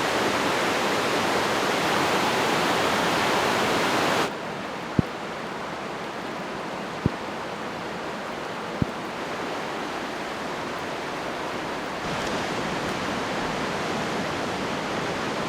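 Rushing water of a large river, a steady hiss that drops suddenly to a lower level about four seconds in and rises slightly again near the end. Three short clicks in the middle.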